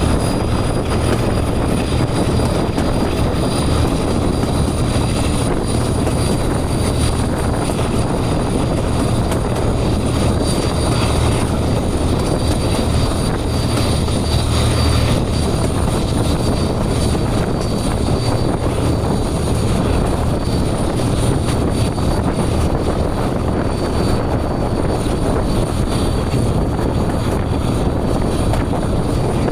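Class 17 diesel-electric locomotive D8568 working hard under power as it climbs, its engines running loud and steady with a thin high whine over the deep throb.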